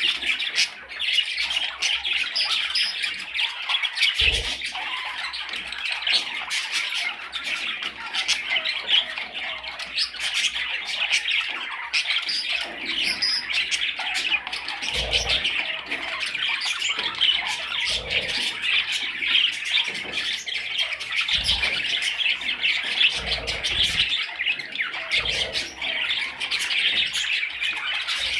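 Small pet parrots squawking and chattering continuously, a dense overlapping racket of many calls, with a few low thumps scattered through.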